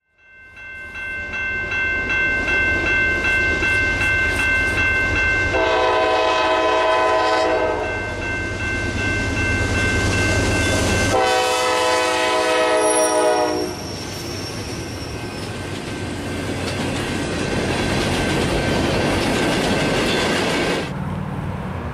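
Freight train with CSX diesel locomotives passing: the locomotive horn sounds two long blasts, about 6 and 11 seconds in, over a low engine rumble. After the horn, the tank cars roll by with a steady clatter of wheels on the rails.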